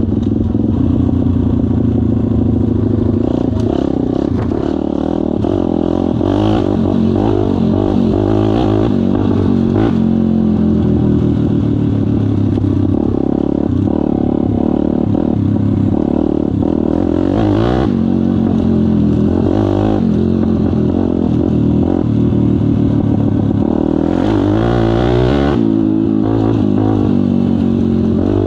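Kayo pit bike engine running under way, the revs rising and falling again and again as it is ridden.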